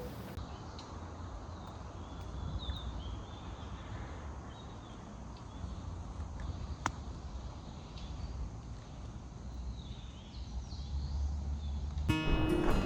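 Outdoor forest ambience: a steady low rumble and hiss, with faint, scattered bird chirps and a single sharp click about seven seconds in.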